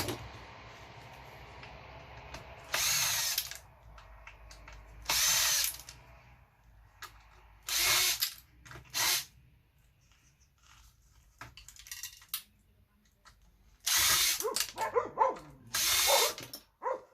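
Cordless drill-driver run in six short bursts of about half a second each, backing screws out of an old computer's casing, with small clicks and handling noises between the bursts.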